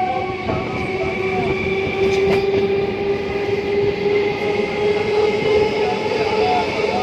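Kolkata suburban electric local train running, with a steady rumble of wheels on track and a motor whine that rises slightly in pitch.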